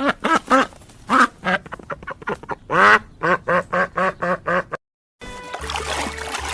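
Ducks quacking, a quick run of short nasal calls about three to four a second, with one longer quack in the middle. The quacking cuts off a little before the end, replaced by a different low steady hum.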